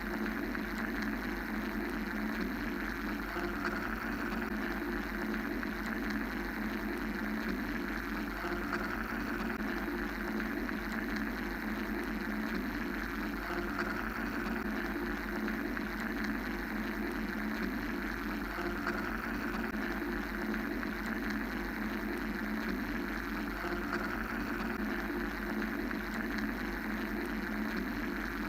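Steady mechanical white-noise drone, a continuous machine-like hum and hiss with no breaks. Its upper hiss swells and fades slowly about every ten seconds.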